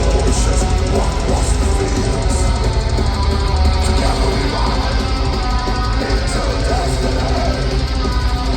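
Live heavy metal band playing: distorted electric guitars and drum kit, loud and dense, as heard from the audience.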